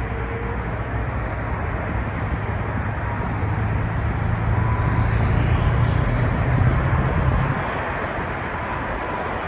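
Airbus A330 airliner on final approach: a steady jet-engine rumble that grows louder to a peak about six to seven seconds in, then eases as the deepest part drops away.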